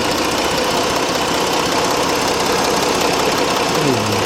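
Jeep Grand Cherokee's 3.7-litre V6 running at idle, heard up close under the open hood as a loud, steady engine sound.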